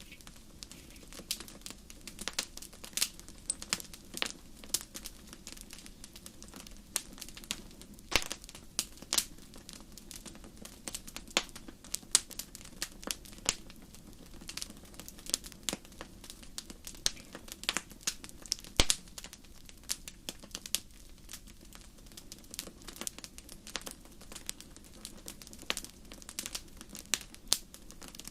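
Wood fire crackling in a fireplace: irregular sharp pops and snaps, several a second, over a low steady rush of the flames, with one louder pop about two-thirds of the way through.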